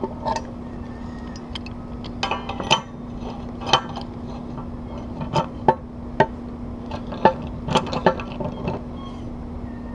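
Irregular metallic clinks and taps of bird-wire hardware and hand tools being handled during installation, over a steady low hum.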